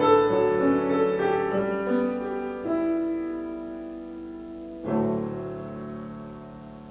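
Piano playing the closing bars of a song: a few held notes and chords, then a final chord struck about five seconds in and left to ring and fade.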